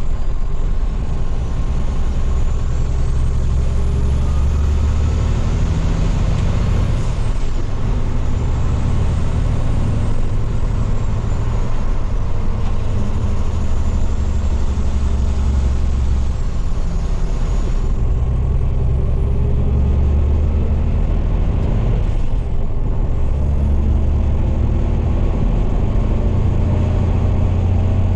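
Heavy diesel dump truck running under way, its low engine note stepping up and dropping back several times as it pulls through the gears of its manual transmission. A faint high whine rises and falls over the engine.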